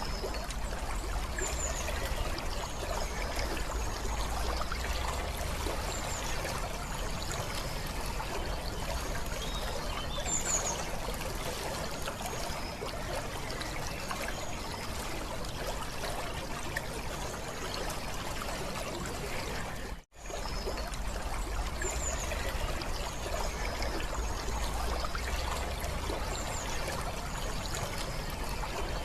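Water trickling steadily, with faint high chirps now and then. The sound cuts out for a moment about twenty seconds in and then resumes.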